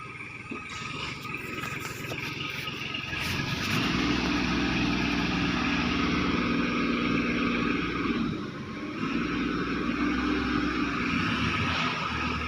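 A motor vehicle's engine running at a steady pitch. It grows louder over the first few seconds, eases off briefly about two-thirds of the way in, then picks up again.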